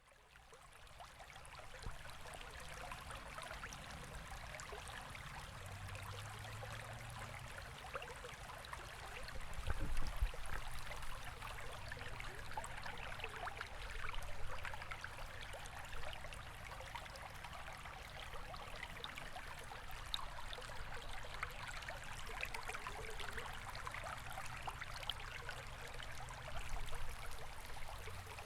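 Stream water running and trickling steadily, fading in over the first second or two, with a low thump about ten seconds in.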